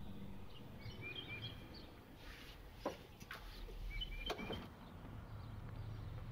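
Faint outdoor ambience with small birds chirping in short repeated notes, and two sharp clicks midway. Near the end a low car engine hum comes in as a car draws near.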